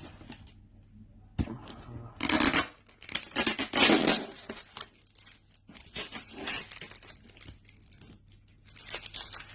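Packaging of a headphone box being torn and crinkled as it is opened, in four or five rough bursts a second or so long with short pauses between.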